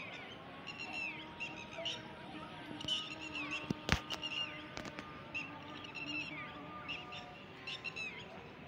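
Birds chirping over one another, many short falling chirps repeated throughout. A single sharp click about four seconds in is the loudest sound.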